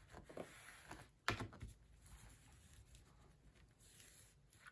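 Quiet handling noise: fabric being pressed down onto a glued book cover, with faint rustling and one soft tap about a second in.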